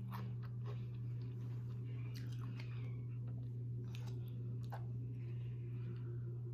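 A person chewing food close to the microphone, with scattered wet mouth clicks and small crunches, over a steady low electrical hum.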